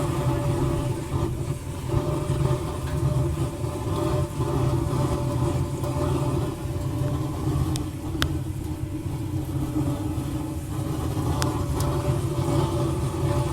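Homemade waste-oil burner running: a steady low rumble of the oil flame with the hum of a salvaged furnace blower forcing air in. A couple of sharp ticks stand out over it, the first about eight seconds in.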